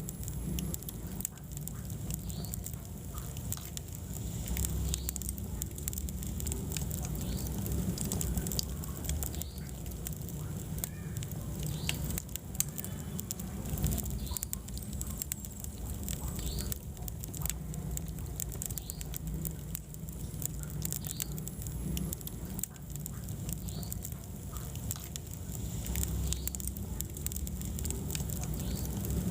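Wood fire burning in a fireplace, crackling with frequent small pops over a low, steady rumble of the flames.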